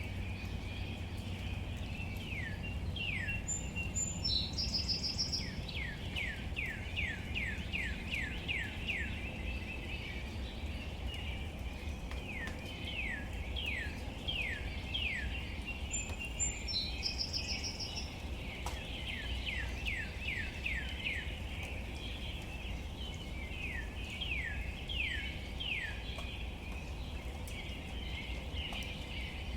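Steady outdoor rain ambience, soft rain on leaves. Over it a bird sings runs of quick down-slurred whistled notes every few seconds, and a short higher call sounds twice.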